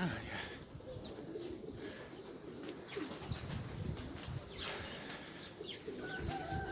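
Nikolaev pigeons cooing in low, repeated pulses, with wing flaps and short high chirps among them. A steady, even tone comes in near the end.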